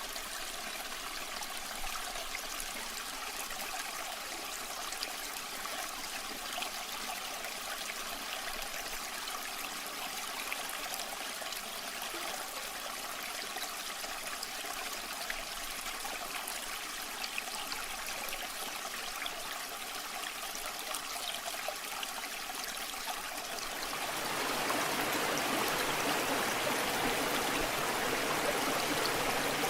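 Waterfall water flowing in a steady rush; about 24 seconds in it turns louder and fuller.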